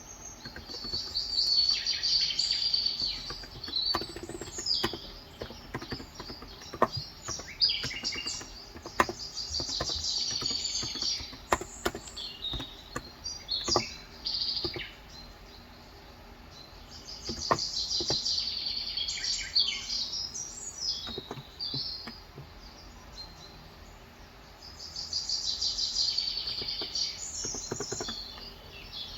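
Birds singing in four bouts of a few seconds each, separated by pauses. Scattered single keystroke clicks from a Cox Endeavour 35g electro-capacitive tenkeyless keyboard fall between and under the song.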